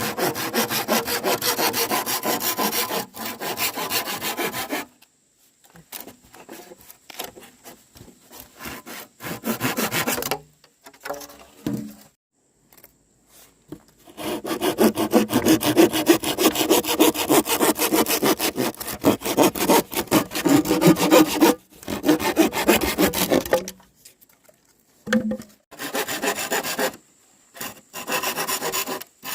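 Saw cutting through wood in several bouts of quick, even strokes, with short pauses between the bouts.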